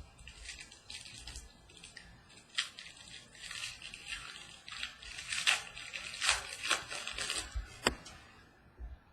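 A foil trading-card pack wrapper crinkling and cards being handled, in a series of short rustles with a sharp click near the end.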